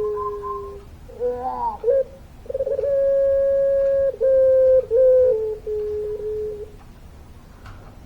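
Puter pelung, a long-calling variety of barbary dove, cooing: a held, drawn-out coo that steps down in pitch, a short wavering phrase, then a second long coo of about four seconds that drops in several steps before stopping.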